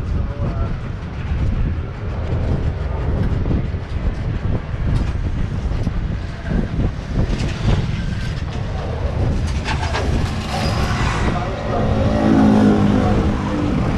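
Steady low rumble of a tram car moving along, with a louder pitched engine note swelling near the end.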